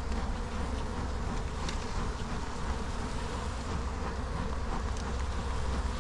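Honey bees buzzing steadily in a low drone around an open brood box, with a few faint ticks.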